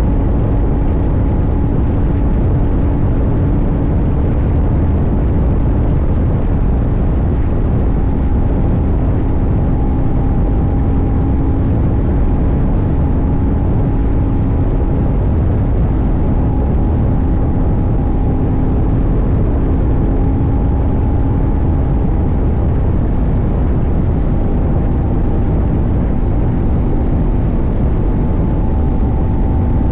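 CFMoto 800NK's 799 cc parallel-twin engine running at a steady cruise, its pitch holding nearly constant, over heavy wind and road rumble.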